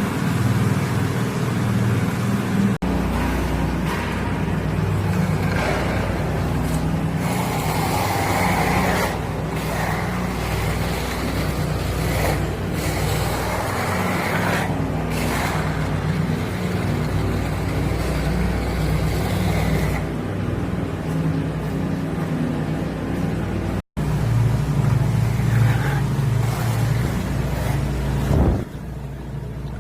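Engine of heavy construction machinery running steadily with a low hum, changing abruptly about 3 seconds in and again near 24 seconds, where the sound cuts.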